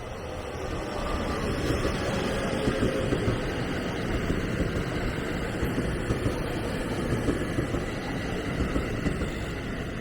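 A train passing close by. The rumble of its wheels on the rail builds over the first second or two, then holds with a run of sharp clacks, and begins to fade at the very end.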